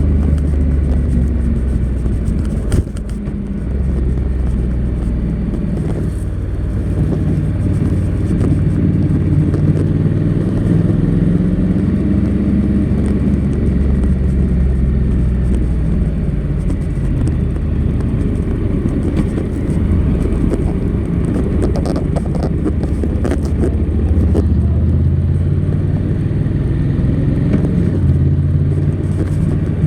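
Honda NC700X DCT's parallel-twin engine running through its stock exhaust while riding, engine speed rising and falling several times, with a brief dip about three seconds in.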